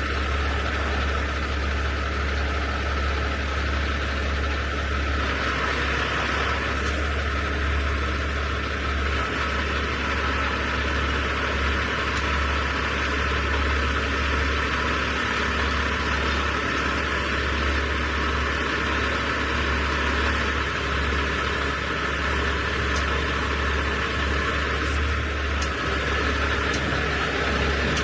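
Heavy diesel truck engine running steadily at a constant speed, a low rumble with a steady high whine over it, during a slow hydraulic lowering of a heavy load.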